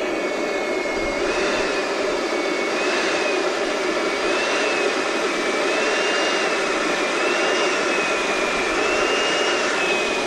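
Electric balloon inflator running steadily, blowing air, with a thin whistle that rises and falls slowly over its motor noise.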